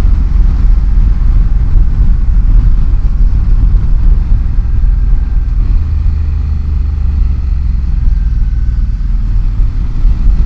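Motorcycle riding along a road, its engine running under heavy wind rumble on the rider's microphone.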